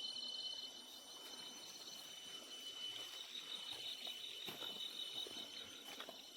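Faint, steady high-pitched chirring of insects, with a rapidly pulsing trill above a continuous tone.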